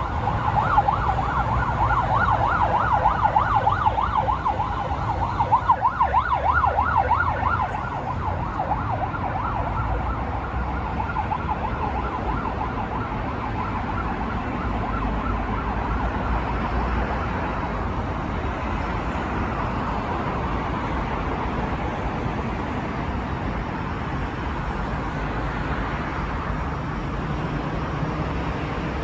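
Emergency vehicle siren sounding a fast yelp, loud for about the first eight seconds and then fading away over the next ten or so, over a steady rumble of road traffic.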